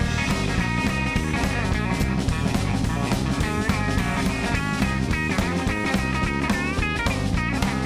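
Live blues band playing an instrumental: guitar lead with bent notes over bass and drums.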